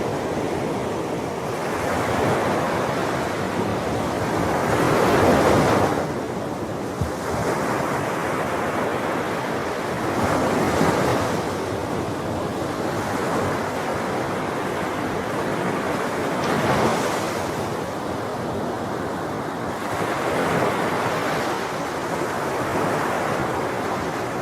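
Sea waves breaking in a continuous wash of surf, swelling and falling back every four to six seconds.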